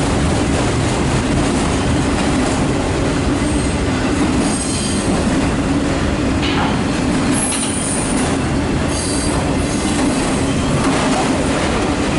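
Loaded autorack freight cars rolling past close by: steady, loud rolling noise of steel wheels on rail, with brief high-pitched wheel squeals coming and going in the middle.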